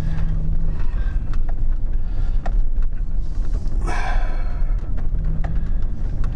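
Low, steady rumble of a car's engine heard from inside the cabin, with a short breath or sigh about four seconds in.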